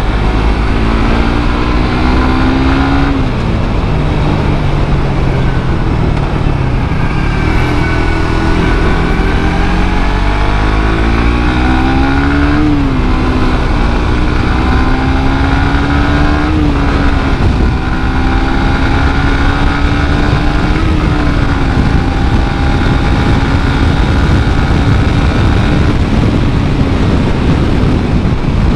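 Suzuki GSX-R150's single-cylinder engine through its stock exhaust, accelerating on the move: the pitch climbs and drops sharply four times as it shifts up through the gears, then holds steady at cruising speed. Heavy wind and road noise run underneath.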